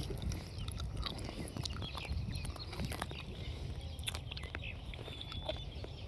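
Wet chewing and sucking: a person eating a ripe Kesar mango and working at the stone, with many small scattered clicks.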